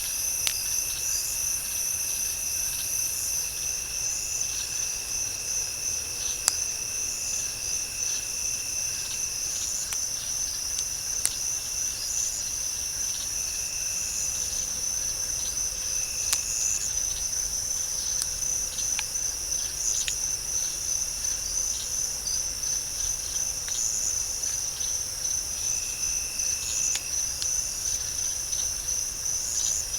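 Insect chorus of crickets: a steady, high, pulsing trill with a fainter, even higher drone above it and a thin steady tone below it. A few sharp clicks stand out, the strongest about six and eleven seconds in.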